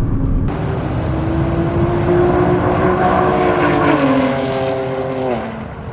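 Nissan GT-R R35's twin-turbo V6 pulling under way. Its pitch rises slowly, then drops in two steps near the end. The engine is cutting out and running badly, which the driver hopes is only heat and fears is engine damage.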